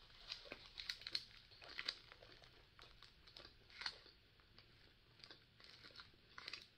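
Faint close-up eating sounds: soft chewing of walnut mochi and crinkling of its snack wrapper as it is handled, a scatter of small clicks and rustles.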